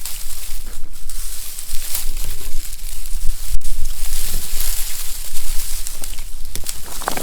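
Close rustling, crinkling and crunching with many small scattered clicks and cracks.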